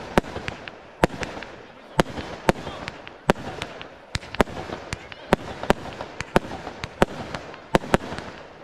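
Aerial fireworks firing and bursting: a string of sharp bangs, about one or two a second at uneven intervals, with a fainter steady noise between them.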